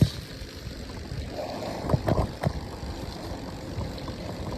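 Steady low rumble and wind noise on the phone's microphone while riding a dirt bike in the rain, with a few sharp knocks about two seconds in.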